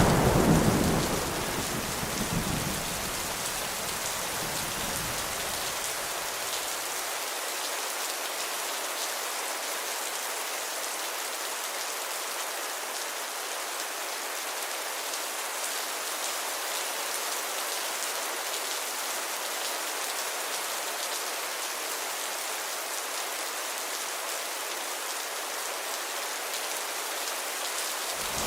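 Heavy rain falling steadily as an even hiss. A thunderclap's rumble is dying away in the first couple of seconds, with a faint low rumble trailing off by about seven seconds in.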